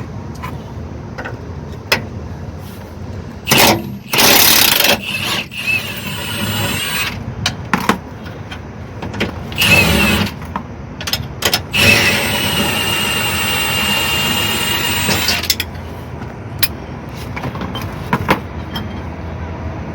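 A power tool runs in short bursts about four and ten seconds in, then steadily for about three and a half seconds, with scattered clinks of tools in between.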